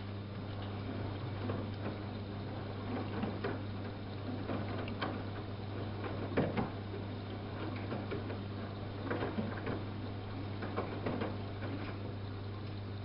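Samsung WF71284 front-loading washing machine running: a steady motor hum with irregular clicks and knocks from the turning drum.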